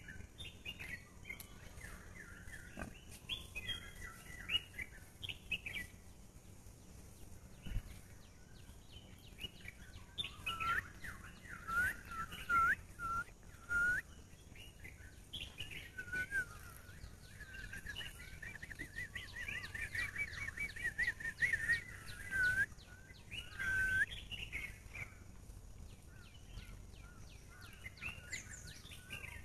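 Birds singing and calling in the trees. First come short whistled notes, then a long, rapid trill about halfway through. Scattered light clicks run underneath.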